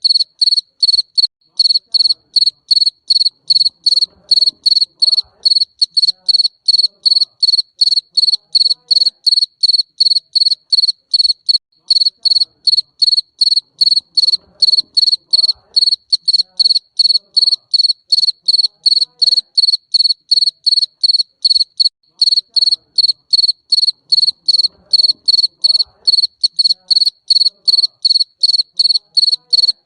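Garden cricket chirping in a steady, unbroken rhythm of about three short, high-pitched chirps a second.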